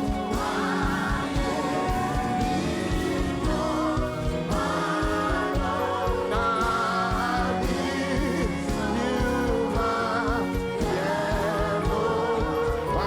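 Gospel worship music: voices singing with vibrato over a sustained instrumental backing with a steady low beat.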